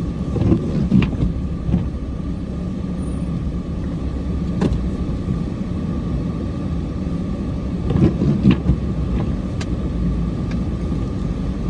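Cummins diesel truck engine running steadily, heard from inside the cab as a low rumble. A few sharp clicks or knocks sound over it.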